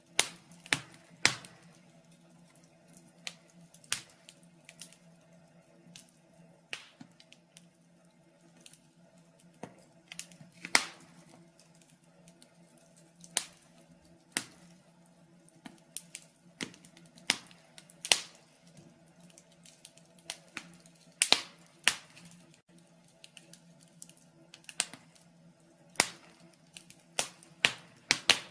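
Wood fire crackling in a fireplace: irregular sharp snaps and pops, some much louder than others, over a faint steady hum.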